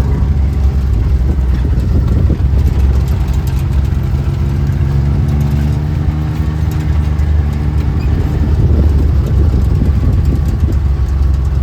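Motor vehicle engine running steadily, heard from on board, its pitch shifting slightly about midway.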